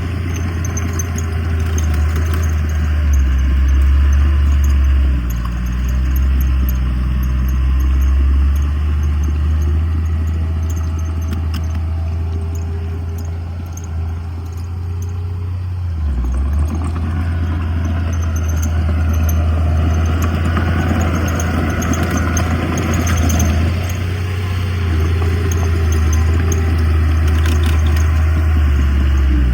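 Heavy diesel earthmoving machinery running: a steady, low engine drone that dips briefly about sixteen seconds in, then picks up again with rougher, clattering noise on top.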